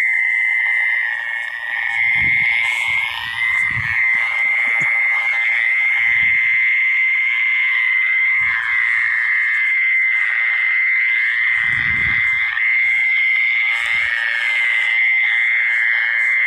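Dense chorus of frogs calling steadily, a continuous high-pitched trilling wash with no break, with a few short low thumps underneath.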